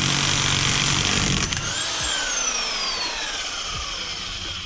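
Power tool motor running at full speed, then winding down after the trigger is let go about a second and a half in, its whine falling steadily in pitch over about three seconds.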